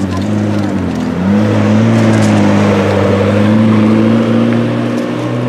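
McLaren 12C Spider's twin-turbo V8 driving by at low revs. The engine note rises about a second in, then holds steady.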